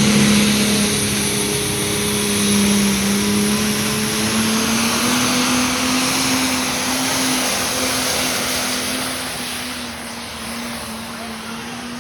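Pulling tractor's engine running hard under load while dragging the weight sled, its pitch creeping slowly upward, growing fainter over the last few seconds.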